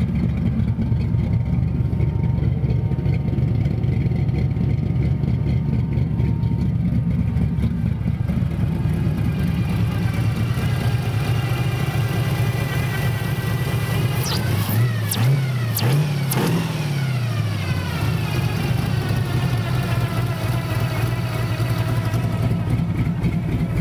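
Small-block Chevy 283 V8 running on a freshly rebuilt Holley 660 carburetor, idling steadily at about 1100 rpm. About fifteen seconds in the throttle is blipped twice, the engine note rising and falling back to idle.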